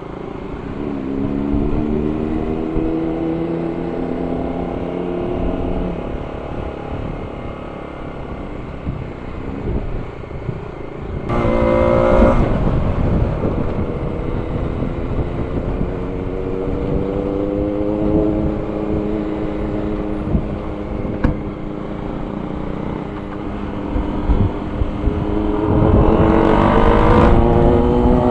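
Motorcycle engine running under way, its pitch rising and falling through the gears, with wind rushing over the microphone. There are two louder surges of hard acceleration, about eleven seconds in and near the end.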